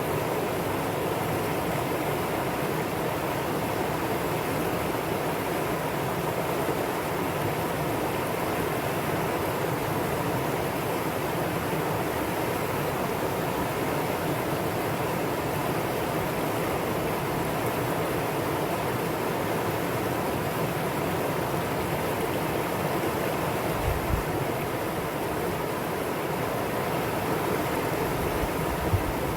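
Mountain valley stream rushing steadily over rocks, a constant even wash of water. Two brief low bumps come near the end.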